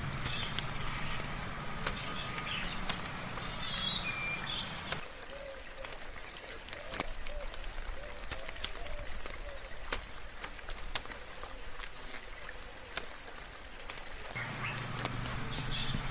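Birds chirping in short scattered calls over soft rain, with sharp ticks of drops through a steady hiss. A low hum stops about five seconds in and returns near the end.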